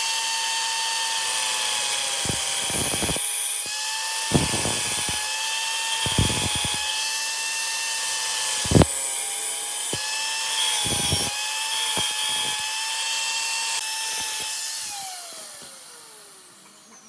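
Handheld electric power tool running with a steady high-pitched motor whine, broken by several short knocks. Near the end it is switched off and its pitch falls as it winds down.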